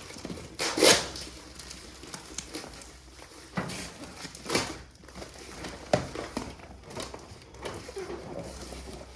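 Items and packaging being handled during an unboxing: irregular rustles and knocks, the loudest about a second in.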